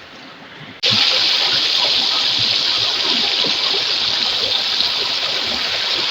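Rushing, splashing water of a river flowing over rocks, a steady loud rush that cuts in suddenly about a second in.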